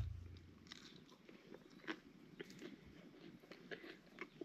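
Faint chewing and crunching of tortilla-chip nachos, a scatter of short crackly crunches. A low thump fades out at the start.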